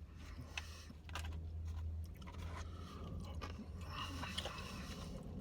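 A person chewing a bite of extra-crispy fried chicken tender in barbecue sauce, with some crunching.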